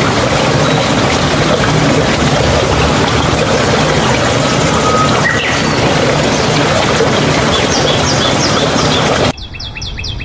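Steady rush of pouring, splashing water, which cuts off abruptly near the end. It gives way to a quick run of short, high bird chirps.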